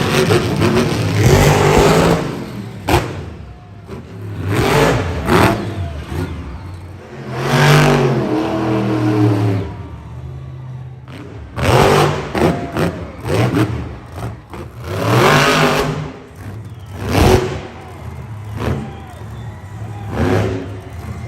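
Monster truck engine revving hard in repeated bursts, the pitch climbing and dropping with each throttle blip, with a couple of sharp bangs in between.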